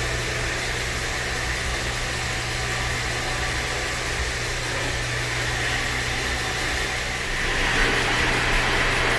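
Roomba robot vacuum running: a steady motor hum with brush and suction hiss, growing louder about seven and a half seconds in.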